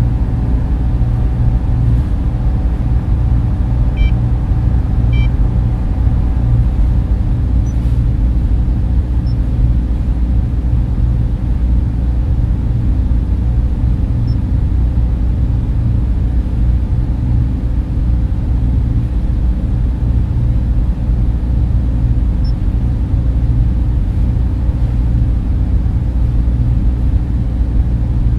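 Data center server room ambience: the steady low drone and whir of server and cooling fans, unchanging throughout.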